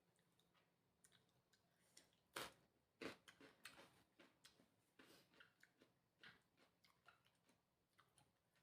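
Close-up eating sounds of someone chewing and gnawing on spicy chicken feet: soft, irregular mouth clicks and smacks, with two louder clicks about two and a half and three seconds in.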